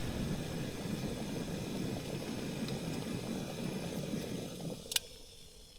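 Camping gas stove burning steadily under a pot, heating water, then shut off near the end, followed by a single sharp click.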